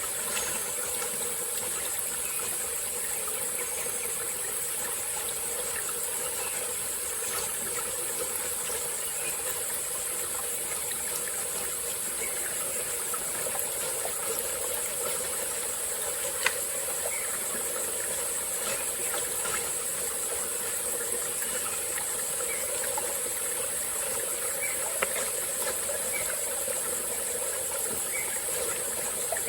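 Small tropical-forest stream flowing steadily under a continuous high-pitched insect drone. Two sharp clicks stand out, the louder about halfway through.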